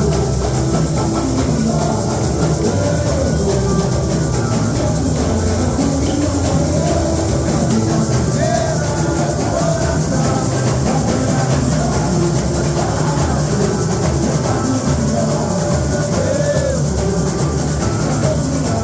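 A samba-enredo played with percussion: shakers and drums keep a steady samba beat without a break.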